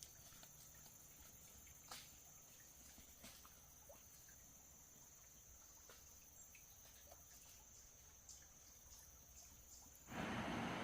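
Near silence: a faint steady high-pitched tone with scattered soft ticks. Near the end a loud steady rushing noise cuts in suddenly.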